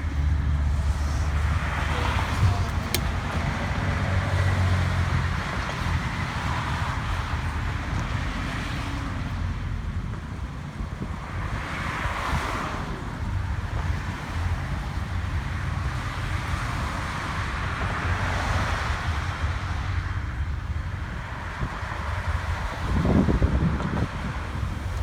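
Car engines running with a low, steady rumble, with wind buffeting the microphone in slow swells.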